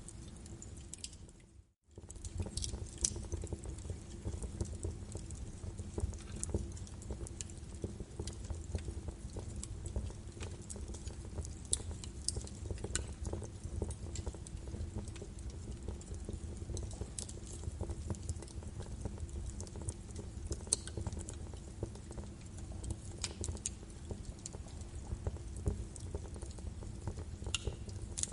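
Birch logs burning in a fireplace, with a steady crackle of sharp pops and snaps over a low rumble of flame. Just under two seconds in, the sound fades almost to nothing and then cuts back in abruptly.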